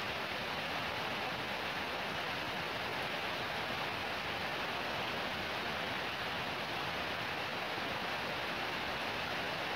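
Fairly heavy rain falling steadily, an even hiss.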